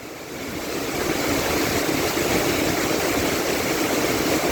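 Heavy rain pouring down: a dense, steady hiss that swells over about the first second, then holds level.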